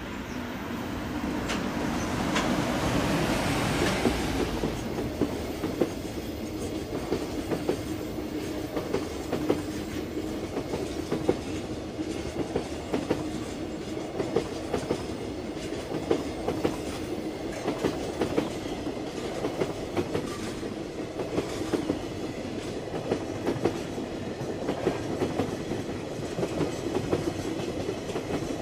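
A long container freight train rolling past, its wagon wheels clattering rhythmically over rail joints. The sound swells about two to four seconds in, then holds steady.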